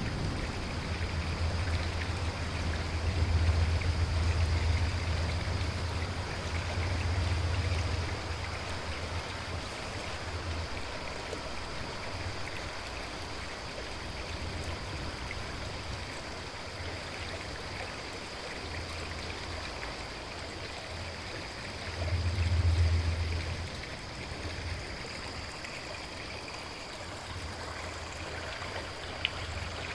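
River water flowing steadily, with deep low rumbles that swell and fade several times, loudest about three to five seconds in and again about twenty-two seconds in.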